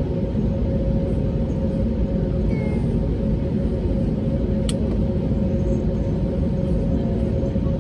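Cabin noise inside an Airbus A320neo during takeoff: a steady rumble from the Pratt & Whitney PW1100G geared turbofans and airflow, with a steady hum running through it. A single faint tick sounds about halfway through.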